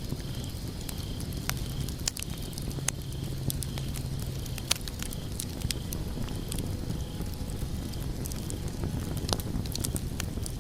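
Wood logs burning in a fireplace: a steady low rumble of flames with irregular crackles and pops, the sharpest snap about five seconds in.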